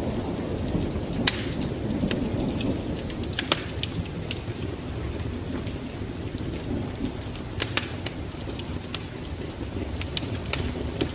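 Wood fire crackling in a fireplace: irregular sharp pops and snaps, several a second and a few louder ones, over a steady low rush.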